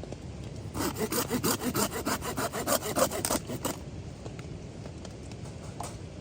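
A folding pruning saw, the Silky Gomboy, cutting through a wooden branch in a quick, even run of strokes for about three seconds, then stopping.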